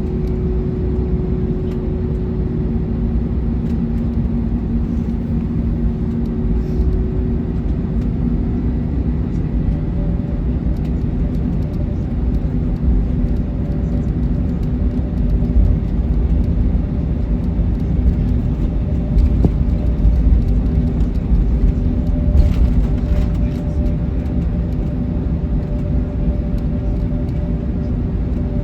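Steady cabin rumble of an Airbus A321neo airliner on the ground after landing, its jet engines running at low power with a few steady hum tones over the rumble.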